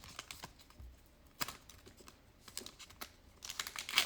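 Trading cards and their packaging being handled: soft rustling with scattered light ticks and clicks. The sharpest tick comes about a second and a half in, and a cluster of clicks comes near the end.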